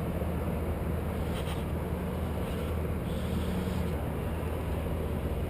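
A steady low engine rumble, even throughout.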